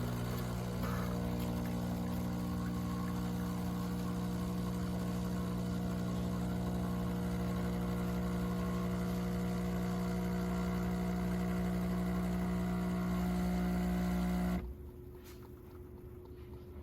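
De'Longhi Magnifica Start fully automatic espresso machine running with a steady electric hum, which cuts off abruptly about fourteen and a half seconds in.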